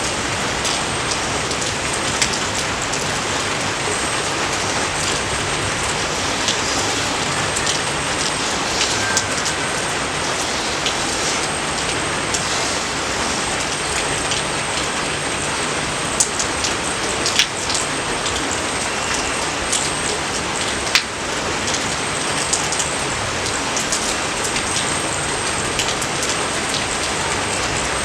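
Steady rain falling on rice paddies, a dense even hiss with scattered louder drop splats, a few of them sharp about two thirds of the way through.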